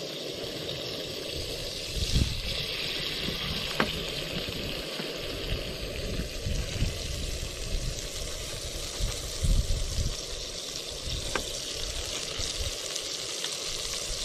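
Chicken pieces sizzling and frying in a wok on a Trangia methylated-spirit stove as they are tipped in and stirred with a spatula, with a few light clicks and some low rumbles.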